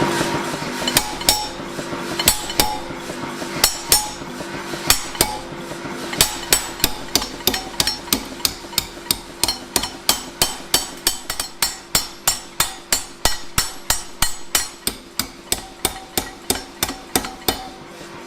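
Hammer blows on a spring ball swage, forming a ball on the end of a steel bar. The metal-on-metal strikes are spaced out at first, then settle about six seconds in into an even run of about three blows a second that slowly gets quieter.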